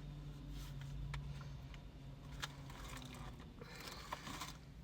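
Plastic fruit punnets being handled: a few light clicks and faint rustles, over a low steady hum that stops a little over halfway through.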